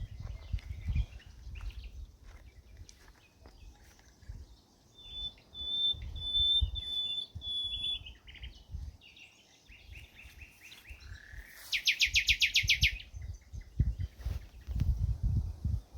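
Wild birds singing: a few high, clear whistled notes, then about a second of loud, rapid trill past the middle, over an irregular low rumble.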